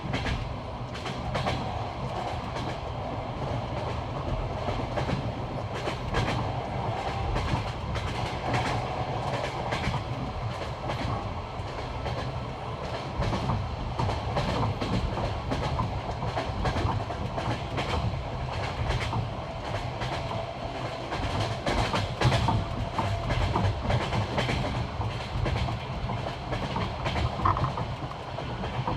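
Passenger train wheels clattering over the rail joints of jointed track, heard from aboard the moving train: a steady rumble broken by sharp, uneven clacks.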